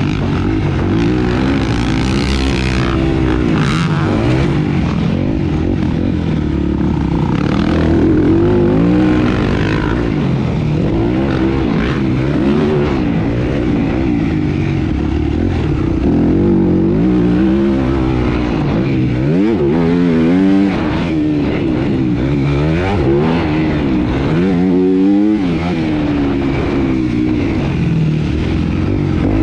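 Single-cylinder motocross bike engine revving hard, its pitch climbing and dropping back over and over as the throttle is opened and shut around the track.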